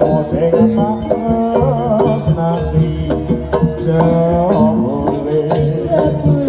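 Live jaranan music: an East Javanese ensemble of drums and percussion keeping a steady beat under a wavering, bending melody line.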